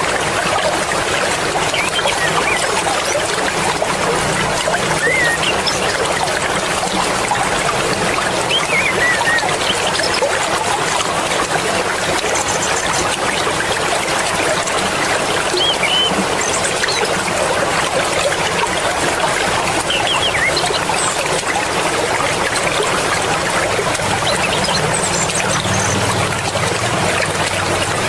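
Fast-flowing mountain river, a steady rush and babble of water, with a few faint high chirps scattered over it.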